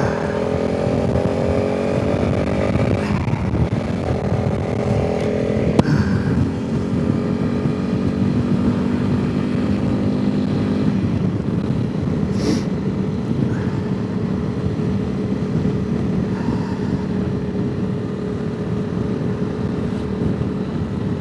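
Honda CRF300 Rally's single-cylinder engine accelerating through the gears, its pitch rising, dropping at a shift about three seconds in, then rising again before settling into a steady cruise. Wind noise on the microphone runs underneath.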